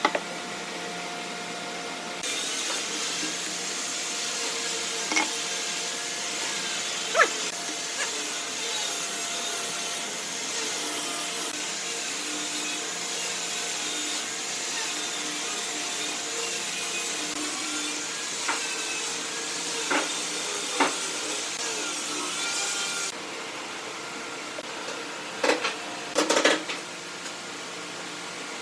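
Wood lathe running with a steady hum while a turning tool cuts the spinning wood, a dense hiss that starts about two seconds in and cuts off near the end. A few sharp knocks come through, several of them near the end.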